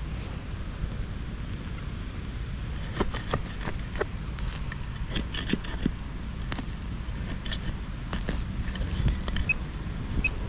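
Wind buffeting the microphone as a steady low rumble. From about three seconds in there is a scatter of short scrapes and clicks.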